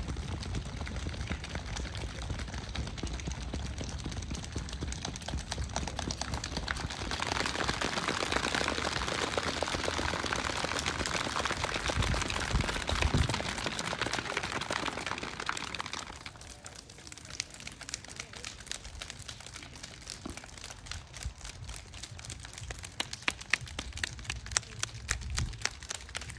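Rain pattering in dense, fast drops on a hard surface. It swells into a louder, hissing downpour about a third of the way in, then eases back to a lighter patter a little past the middle.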